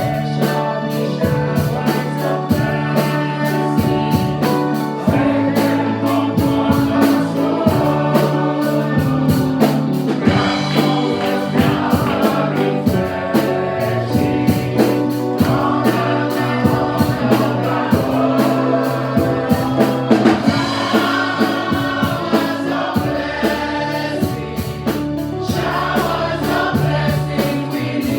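Gospel worship music: a choir singing over a band, with held keyboard and bass notes and a steady drum beat.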